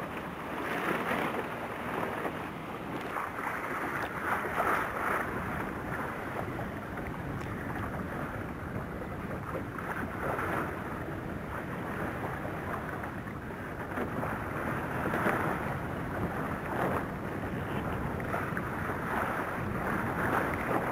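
Water splashing and rushing at sea, with wind buffeting the microphone, swelling in uneven surges every second or two.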